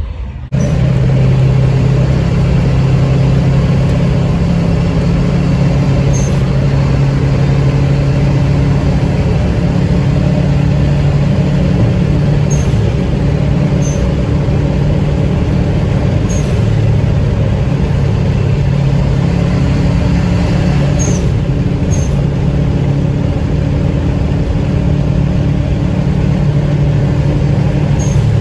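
Car engine running loud and steady at a near-constant pitch, with a few small sharp ticks here and there.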